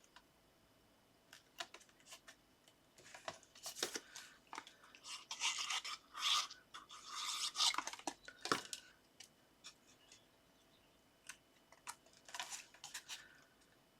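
Paper and card being handled and rubbed while a card is put together: scattered light taps and clicks with short rustling, rubbing strokes, busiest from about four to nine seconds in.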